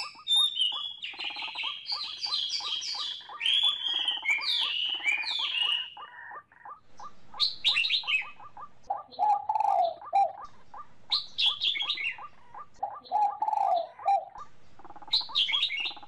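Several birds chirping and calling, busiest in the first few seconds and then in short bouts, over a steady rapid ticking call that repeats about three to four times a second.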